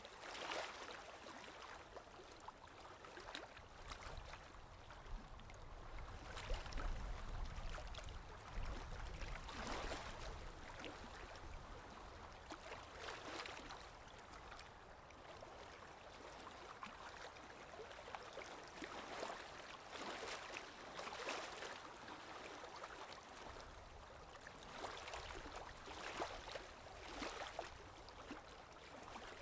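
Running water, like a stream or brook flowing over stones: a steady babble that swells and eases every few seconds.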